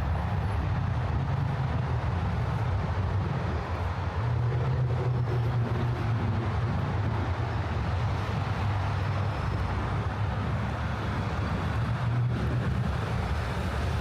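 Steady low rumble of city traffic under a constant even hiss, with no single event standing out.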